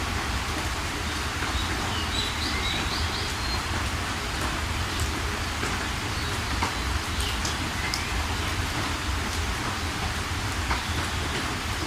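Steady rain falling, with small birds chirping now and then over it and a low steady rumble underneath.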